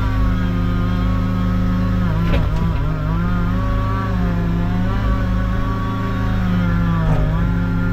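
Chainsaw running at high revs, its pitch dipping briefly twice as it bogs in the wood, over a steady lower engine drone.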